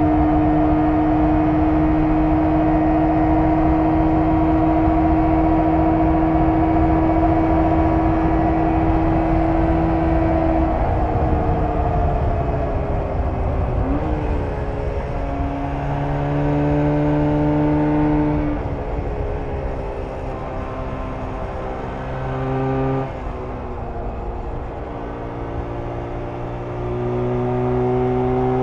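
1994 Jawa 350 type 638 two-stroke twin running under way. It holds a steady note for about ten seconds, then the engine speed falls away. Shorter steady stretches at lower pitch follow, and it speeds up again near the end.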